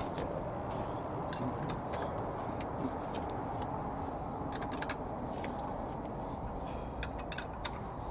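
Light metallic clinks of hand tools or small metal parts, a single one then a few scattered ones and a quick cluster near the end, over a steady low background hiss.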